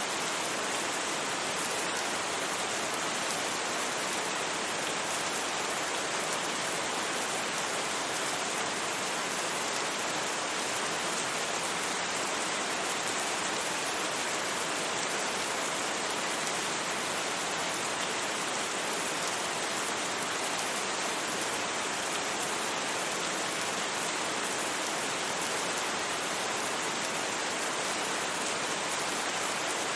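Steady rain falling on a surface, a dense even hiss without thunder or single drops standing out.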